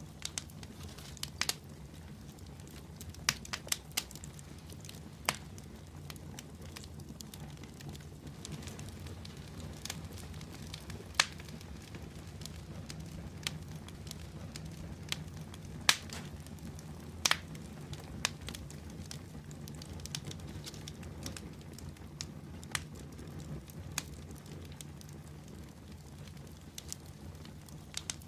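Fire burning in a fireplace, crackling with irregular sharp pops over a steady low rumble of the flames; a few pops stand out louder than the rest.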